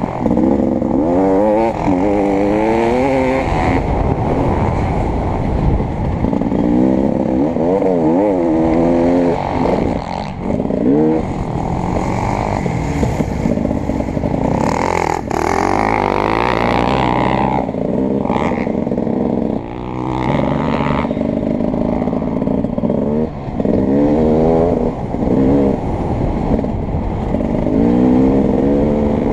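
Beta 300RX two-stroke dirt bike engine being ridden hard on a motocross track, its pitch repeatedly climbing and falling every second or two as the throttle is opened and chopped through the gears. A single sharp knock about halfway through.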